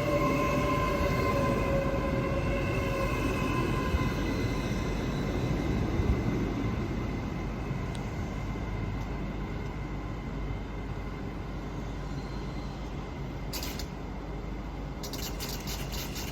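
A train running on the line, its steady rumble and whine slowly fading as it moves away. There are a few sharp clicks near the end.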